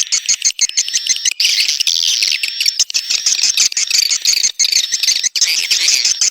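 Swiftlet call recording of the kind played to lure swiftlets into a nesting house: loud, dense, rapid high chirps and buzzy trills with no pause.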